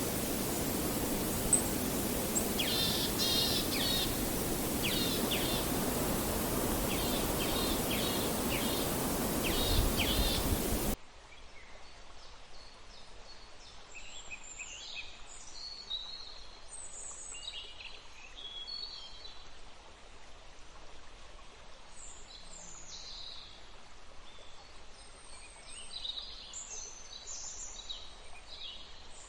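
Rushing river water with songbirds calling in short repeated trills over it. About eleven seconds in, it cuts abruptly to a much quieter forest recording of many birds chirping, with the water nearly gone.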